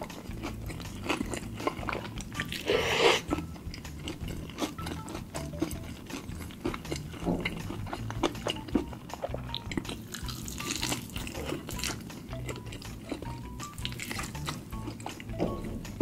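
Close-up chewing and biting of fried chicken, with many small wet mouth clicks and a louder crunchy bite about three seconds in. Quiet background music plays underneath.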